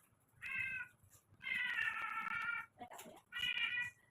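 A domestic cat meowing three times, the middle call long and drawn out, the others short, protesting at being bathed.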